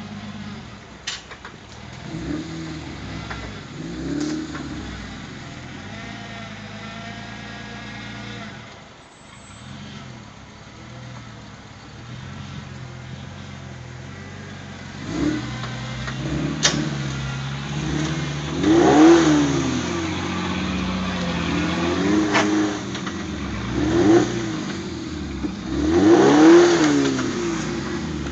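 Suzuki SJ413's 1.3-litre four-cylinder petrol engine working under load as the 4x4 crawls up a steep rock climb. The revs rise and fall in short bursts of throttle, a few times early on and more often and louder in the second half.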